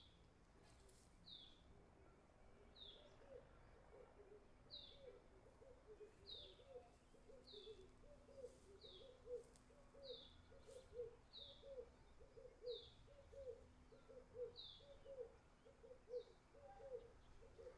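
Birds calling: a high, short downward chirp repeated over and over about every 0.7 seconds, joined a few seconds in by a quick run of low call notes, two or three a second.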